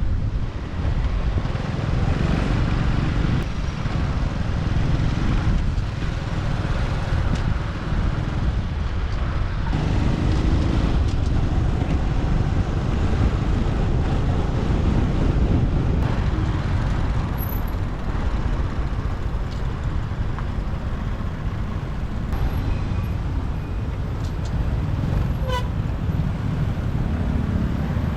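Riding a motorbike in city traffic: engine, road and traffic noise run steadily, under heavy low wind rumble on the microphone. A faint, brief rising chirp comes near the end.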